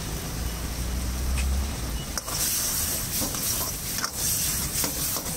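Chicken 65 frying in its sauce in a kadai over a high gas flame, with a steady low rumble from the burner. About two seconds in, a steel ladle starts stirring, knocking and scraping against the pan, and the sauce sizzles loudly.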